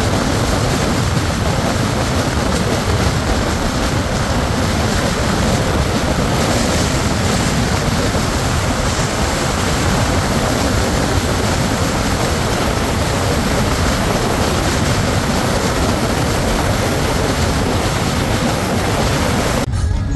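Steady, loud rushing noise with a deep rumble, the sound of a moving vehicle.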